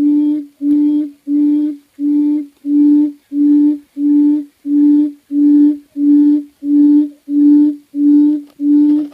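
A bird-call lure played through the small speaker of an MP3 player module: one steady low note repeated evenly, about one and a half times a second.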